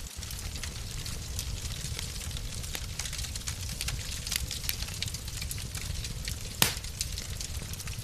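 Wood fire in a fireplace crackling, with frequent small pops and one louder pop near the end, over a steady low rumble.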